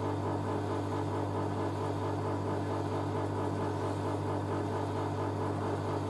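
Drain pump of a Hoover A3060 Electronic 1100 washing machine running with a steady electric hum as the last of the water clears after the final spin. It is running almost dry; its rotor makes a squealing sound at this stage of the cycle.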